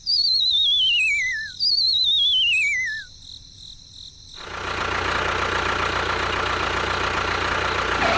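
Two falling, wavering whistle tones, one after the other, like a cartoon sound effect, followed a little past halfway by a steady mechanical buzz of a small motor.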